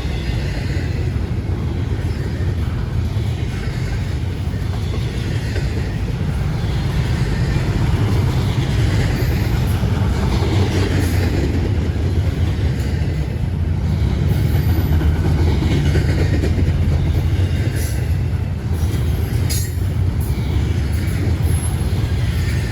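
A CSX freight train rolling past close by: a steady heavy rumble of cars on the rails, with wheel clatter and a few sharp high metallic squeaks near the end.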